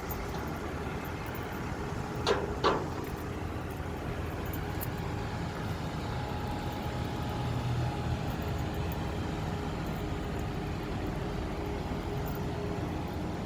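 Truck driving down the road: a steady engine and road rumble, with two short sharp sounds close together a little over two seconds in.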